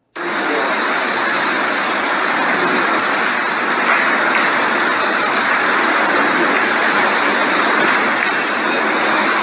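Hurricane wind blowing hard, a loud, steady rushing noise that does not let up.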